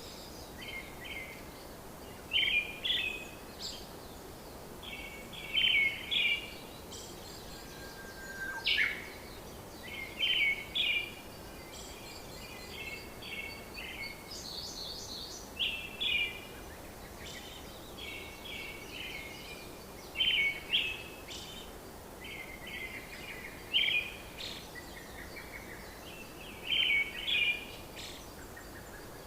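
Small birds chirping in short bursts of quick repeated notes every two or three seconds over a steady background hiss.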